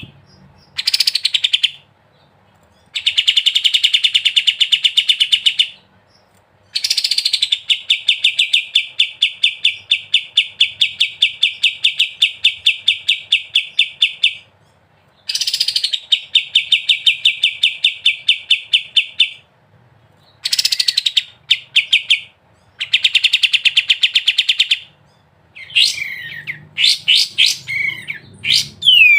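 Kapas tembak songbird singing in long, fast 'ngebren' trills: runs of rapidly repeated notes lasting several seconds each, broken by short pauses. Near the end the song turns to quicker, more varied sweeping notes.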